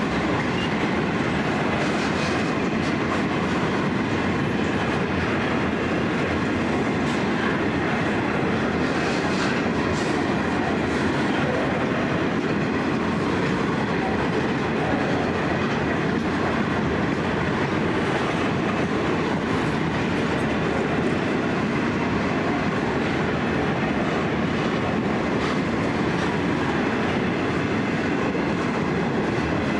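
Empty grain hopper wagons rolling past: a steady rumble of steel wheels on rail, with clickety-clack over the rail joints.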